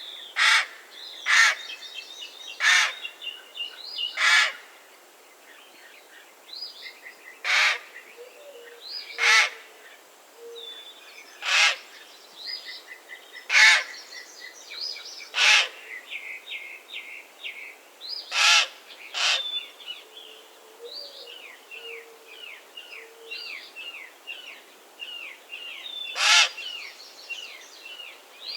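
Common raven giving about a dozen short, rough calls, one to three seconds apart, with a longer pause before the last one. Smaller songbirds chirp steadily underneath.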